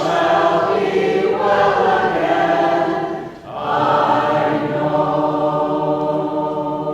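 A small vocal group singing together in harmony, holding long notes. There is a brief break for breath about three and a half seconds in, then a long sustained chord.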